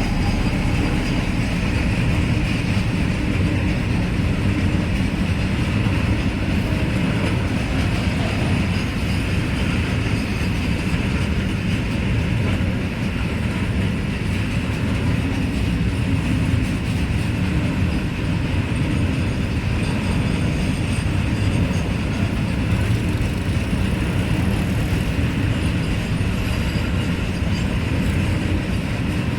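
Loaded freight train rolling past, its wagon wheels making a steady, heavy rumble on the track.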